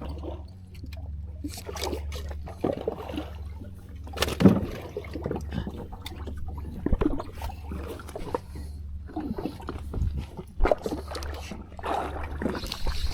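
Fishing boat's engine idling with a steady low hum, with scattered knocks and clatter on the boat.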